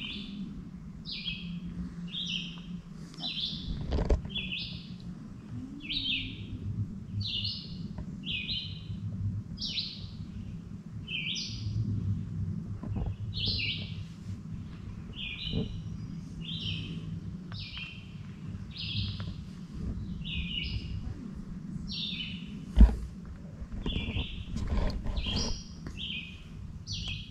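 Forest birdsong: a songbird repeating short, high chirping notes over and over, a little more than once a second, over a low steady hum. A sharp knock about 23 seconds in, and a fainter one about 4 seconds in, stand out above the song.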